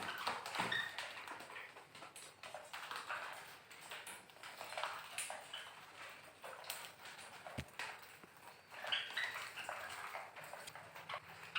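Caged small parrots at their seed mix: faint scattered chirps and light clicks as they feed.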